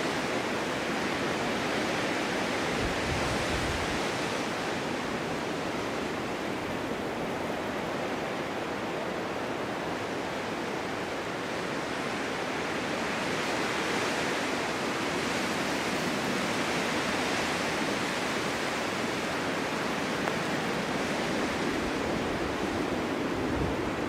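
Snowstorm wind blowing steadily, a continuous rushing noise that slowly swells and eases every few seconds.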